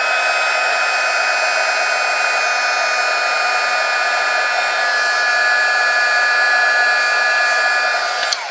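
Handheld electric dryer blowing steadily: a rush of air with a high motor whine over it. It switches off near the end, and the whine falls away.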